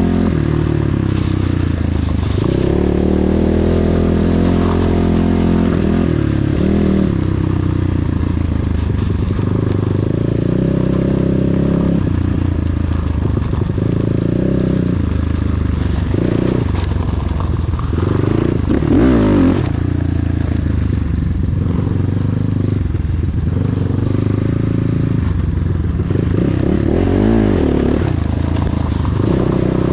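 KEWS K16 PRO enduro motorcycle engine running under throttle while riding, its revs rising and falling again and again, with a quick sharp rev about two-thirds of the way in.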